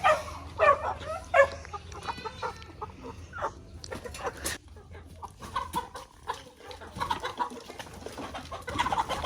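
Chickens clucking in a run of short, overlapping calls, with a few sharp knocks near the middle.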